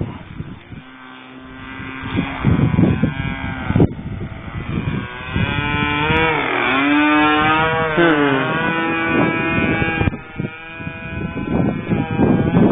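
Propeller engine of a trainer aeroplane making a pass: its note grows louder toward about six seconds in, then slides down in pitch as the plane goes by, and fades near the end.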